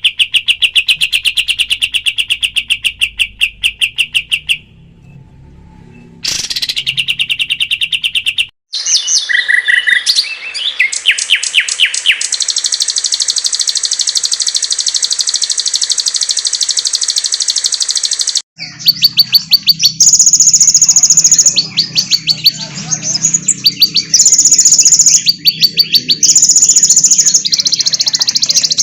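Masteran recording of songbirds singing fast, rapid-fire trills, spliced from several birds with abrupt cuts between them. A trill is followed by a brief pause about five seconds in, then a higher, steadier trilling, and after a sudden cut, from about eighteen seconds, a faster, alternating high chatter.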